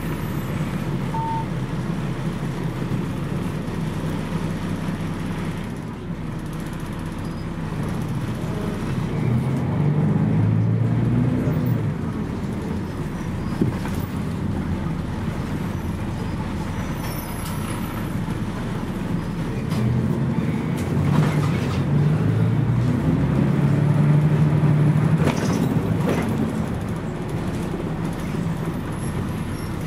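Scania CN113CLL city bus heard from on board, its Scania DSC 11.71 diesel engine running under way. The engine note rises and strengthens twice, around ten seconds in and again from about twenty seconds in, as the bus pulls.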